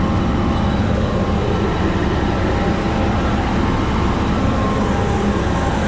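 Grain-handling machinery running steadily as corn is unloaded: the elevator and the unload conveyor beneath a hopper-bottom trailer, feeding corn into the elevator. It makes a constant low rumble with a faint steady whine.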